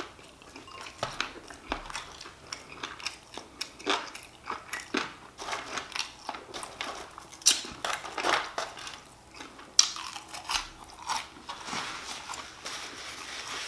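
Close-miked eating: someone chewing fried chicken wings and french fries, with irregular crisp crunches and mouth clicks.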